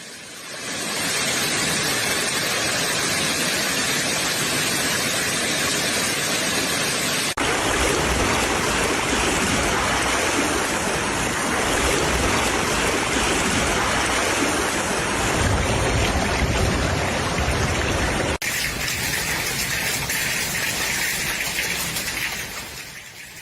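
Steady noise of rushing water, as in flooding with heavy rain, in three sections that change abruptly about seven and eighteen seconds in.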